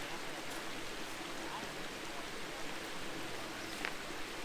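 Steady rush of flowing water, with a few faint short chirps over it.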